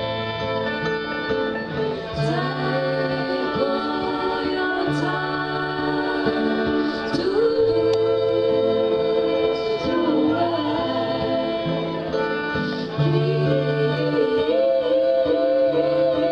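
A live acoustic band playing a country or bluegrass tune with plucked strings and singing, while the bass steps back and forth between two notes. The music gets louder about three-quarters of the way through.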